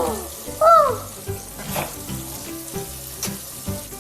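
A parrot's loud arching call about half a second in, rising then falling, followed by a few short sharp chirps. Background music plays throughout.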